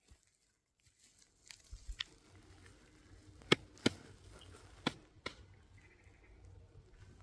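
A handful of sharp knocks, irregularly spaced, the loudest about three and a half seconds in, over a faint low rumble.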